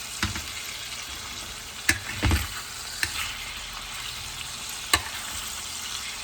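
Chicken thighs sizzling steadily in a frying pan, with a few sharp clicks and knocks of a utensil against the pan as the pieces are turned.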